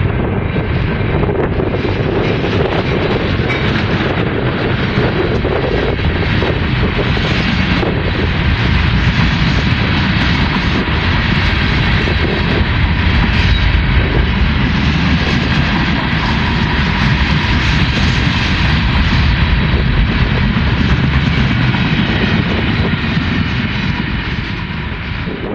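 Union Pacific diesel-hauled freight train passing close by: the locomotive going past, then a long string of freight cars rolling on the rails in a steady loud rumble with faint clicks from the wheels. It eases off slightly near the end as the cars recede.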